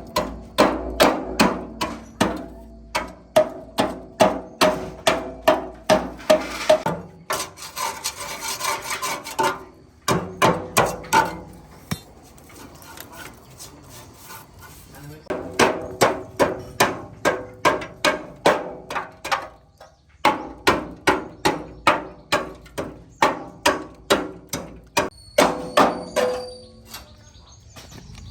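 A hammer striking metal repeatedly in runs of quick blows, about three a second, each blow ringing briefly. The runs are broken by short pauses with fainter scraping.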